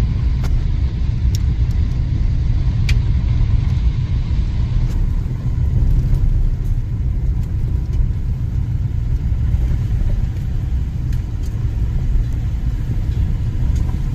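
Truck driving down the road: a steady low rumble of engine and road noise.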